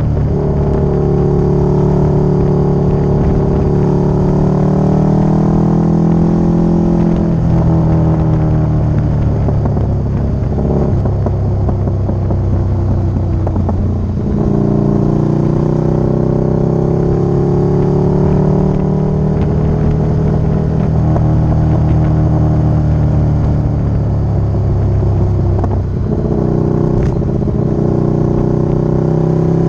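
Motorcycle engine running under way, heard from the bike itself, its note drifting up and down with the throttle and breaking a few times, as at gear changes. A low rumble of wind and road runs underneath.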